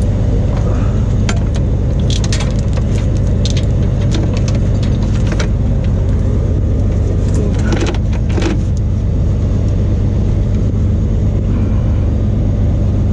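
Diesel engine of a tow truck, an ISX Cummins, idling steadily, with intermittent metallic clinks and rattles of tow chains being handled, clustered about two to three seconds in and again around eight seconds in.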